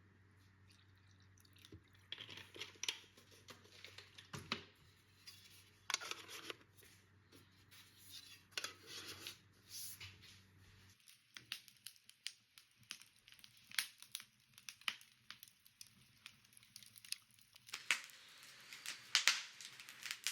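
Close rustling, crinkling and tearing, as of packaging being handled and torn open, with scattered light clicks and knocks. A faint low hum under it stops suddenly about halfway through.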